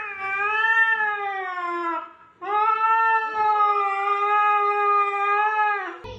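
A cat giving two long, drawn-out yowls, the first about two seconds long and the second, after a brief pause, about three and a half seconds.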